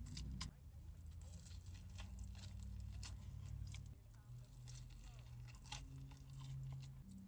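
Faint close-miked chewing of crunchy food: scattered crisp crunches and mouth clicks over a low steady hum.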